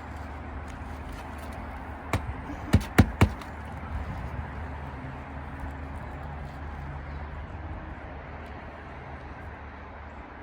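Four sharp knocks of nails being driven into a replacement asphalt roof shingle, one and then three in quick succession, over a steady low rumble.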